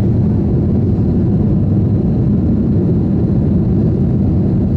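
Steady, low-pitched cabin noise of an Airbus A321-200 in flight: engine and airflow noise heard from a window seat toward the rear of the cabin.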